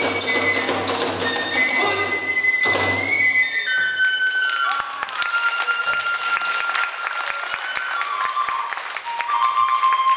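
Kagura music: a bamboo flute plays long held notes, stepping down in pitch, over drum and hand cymbals, which stop about three and a half seconds in; the flute then carries on over light taps.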